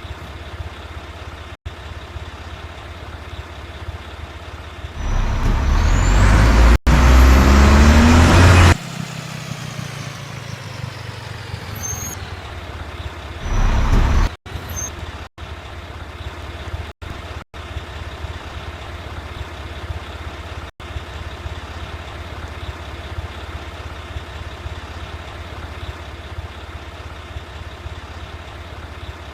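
Mack rear-loader garbage truck's diesel engine running steadily. About five seconds in comes a loud rush of noise lasting nearly four seconds that cuts off abruptly, then a pitch that falls away. A shorter rush follows near the middle.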